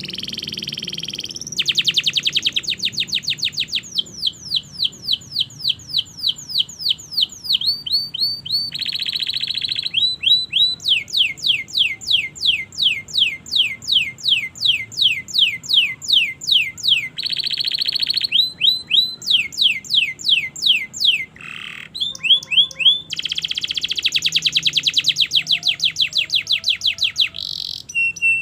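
Domestic canary singing a long, unbroken song. Tours of repeated falling whistles, about three a second, alternate with fast buzzy trills, and the phrase changes every few seconds.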